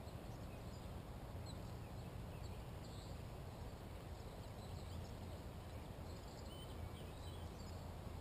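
Distant songbirds chirping faintly and intermittently, short scattered calls, over a steady low background rumble.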